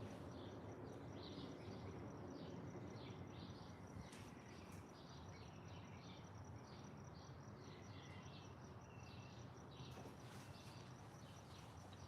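Garden birds chirping faintly, with short notes repeating over a steady, high, fast-pulsing trill and a low background hum.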